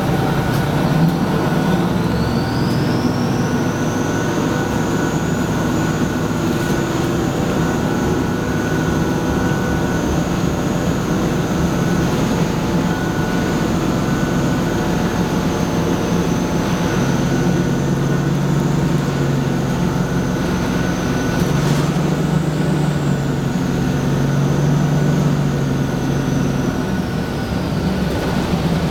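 Detroit Diesel 6V92TA two-stroke V6 diesel of a 1995 NovaBus Classic city bus running under power, with a very loud, high turbocharger whistle that comes whenever the turbo spins fast. The whistle rises in pitch over the first few seconds, holds steady for most of the time and falls away near the end.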